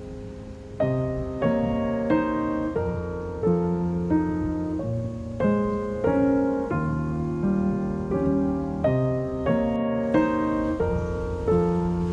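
Gentle background music led by piano, with notes struck about twice a second in a slow, even melody and chords.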